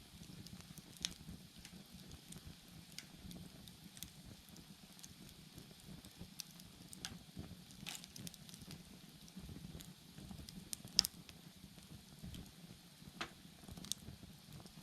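Wood fire crackling, with irregular sharp pops over a low, steady rumble of the flames. The loudest pop comes about eleven seconds in.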